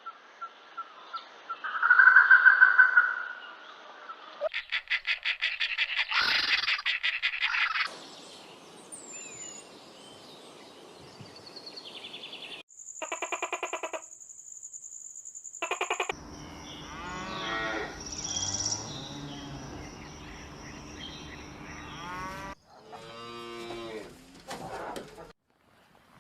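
A series of short animal calls of several different kinds, cut one after another, with abrupt changes between them, including a rapid pulsing call and pitched, repeated cries.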